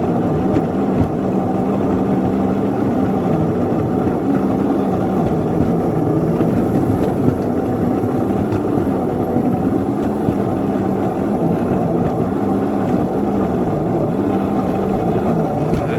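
Ride-on miniature railway locomotive's engine running hard under load while pushing a snow plow, its pitch wavering up and down as the wheels slip.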